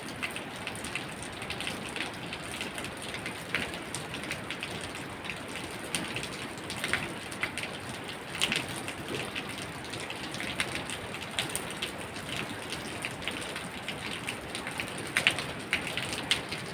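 Steady rain falling, with frequent sharp, irregular drip impacts standing out above the even hiss of the downpour.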